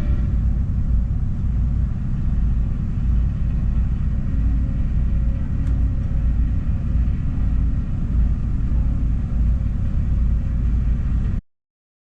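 Steady low rumble aboard a motor yacht under way, cutting off abruptly near the end.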